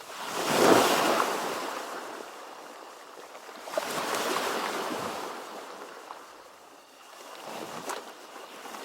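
Ocean waves surging in three swells of surf noise: the loudest about half a second in, another around four seconds, and a weaker one near the end.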